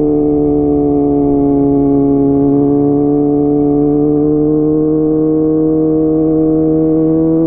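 Kawasaki ZX-25R's inline-four engine running through a DX Generation GPR full-system exhaust while riding at steady, moderate revs. Its pitch dips slightly over the first couple of seconds, then climbs gently toward the end.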